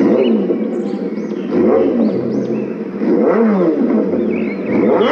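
Kawasaki Ninja sportbike with an aftermarket titanium exhaust, revved at standstill by twisting the throttle: repeated blips about every second and a half, the pitch rising and falling with each, over a steady engine note.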